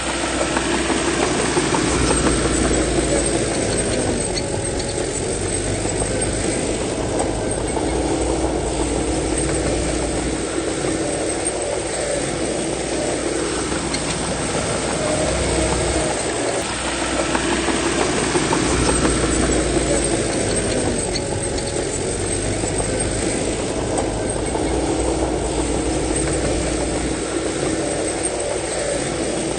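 Diesel engine of heavy earthmoving machinery running continuously, its note rising and falling in a repeating cycle.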